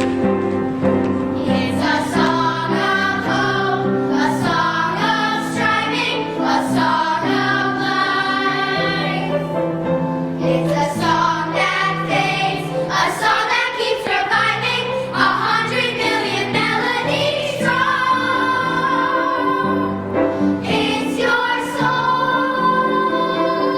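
A chorus of young voices singing a song together with instrumental accompaniment, the notes moving in steady phrases over held lower chords.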